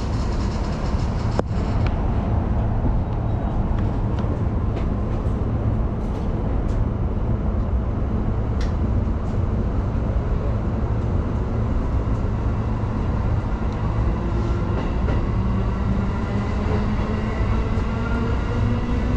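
Electric commuter train running with a steady rumble and a few sharp clicks. In the last few seconds the traction motors whine, rising steadily in pitch as the train accelerates.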